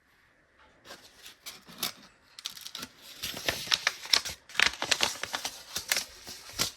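Rapid, irregular clicking and light tapping from small onion seeds and plastic as pinches of seed are sprinkled by hand into the cells of a seed-starting tray. It starts about a second in and grows busier about two and a half seconds in.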